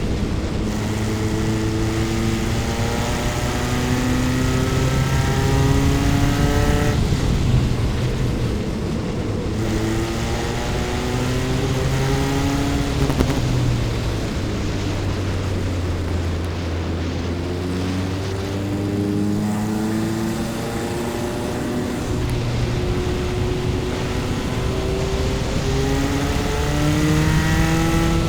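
Single-seater race car engine heard from onboard, running at moderate load with its pitch repeatedly climbing in short steps and then dropping back, with a lower, steadier stretch about halfway through.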